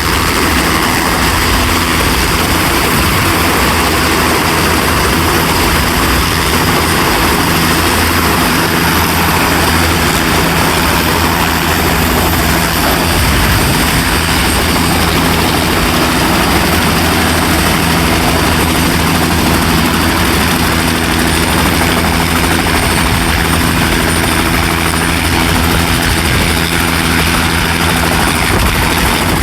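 Bell turbine helicopter running close by: a steady, loud rotor beat with a high, thin turbine whine held over it.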